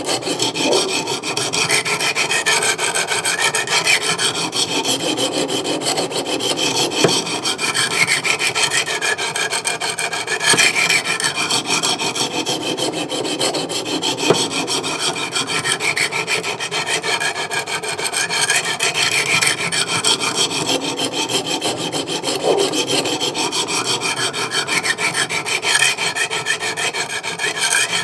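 200-grit sharpening stone scraping along the edge of an S35VN steel knife blade in long, even strokes that repeat every few seconds, working up a burr on the blade.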